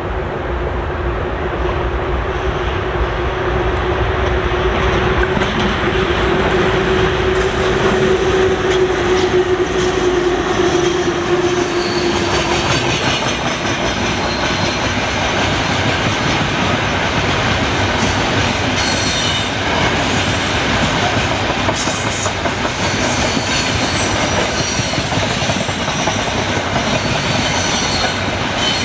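A VL10 electric locomotive hauling a freight train goes by with a steady hum that sinks slightly and fades after about ten seconds. After that, a long string of open gondola wagons rolls past with a steady rumble, wheels clicking over the rail joints, and high-pitched wheel squeals coming and going.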